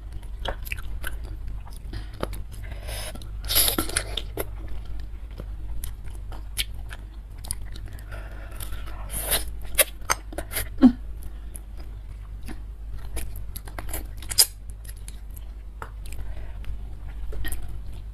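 Close-miked chewing and biting of bakso beef meat and tendon, with many sharp wet mouth clicks and a few louder crunchy bites, about three to four seconds in and again about nine seconds in.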